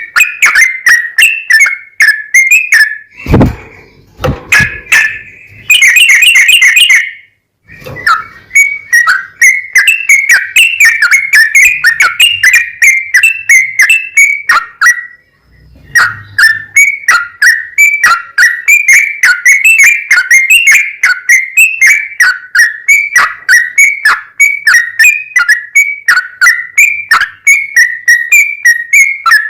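Yellow-vented bulbul (trucukan) singing a long, loud run of quick, repeated bubbly whistled notes. It breaks off briefly a few times, with a low thump about three seconds in and a harsh, dense burst around six seconds.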